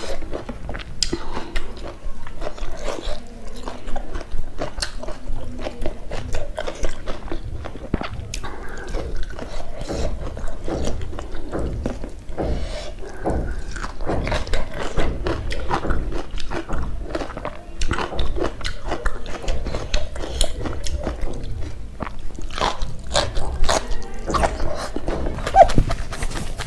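Close-miked chewing and mouth sounds: an uneven stream of wet smacks and clicks as food is chewed with the mouth closed, picked up by a lapel microphone on the eater's chest.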